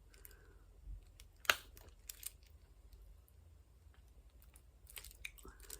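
Faint, scattered small clicks and taps from diamond painting work, with one sharper click about a second and a half in.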